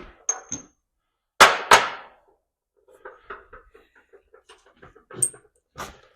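Metal hand tools and hardware being handled: a couple of small ringing clinks, two loud clanks about a second and a half in, light rattling, then another ringing clink and a knock near the end.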